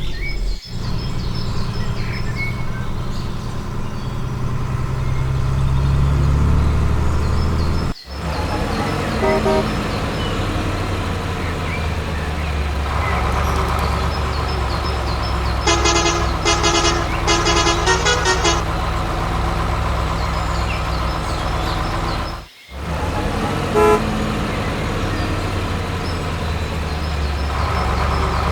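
Heavy vehicle engine running steadily with a low hum. It drops out briefly three times, and a run of short horn toots sounds a little past the middle.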